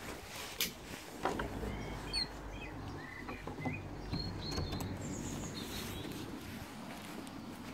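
Small birds chirping, a run of short chirps through the middle, with a few sharp clicks and a low rumble of handling.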